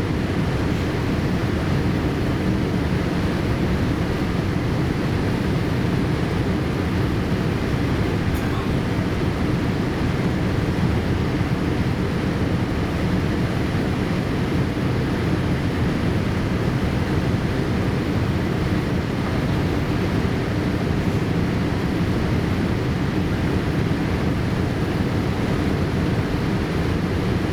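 Steady low rumble of airflow and engines heard inside the cabin of a Boeing 787-8 airliner in flight on its landing approach.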